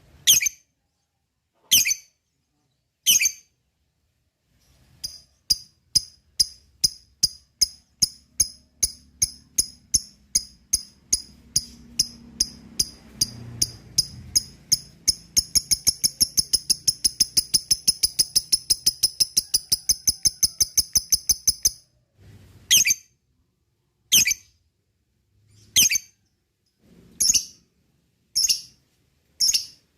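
Lovebird calling: a few single sharp chirps, then calls that come faster and faster from about five seconds in, running into a long rapid chattering trill, the 'ngekek', that cuts off suddenly at about 22 seconds. Single chirps then resume, roughly one a second.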